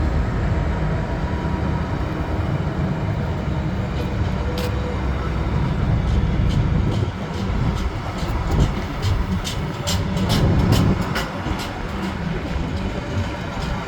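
A train passing on the rails with a steady low rumble, and a run of sharp clicks from about four seconds in that comes thickest near the end.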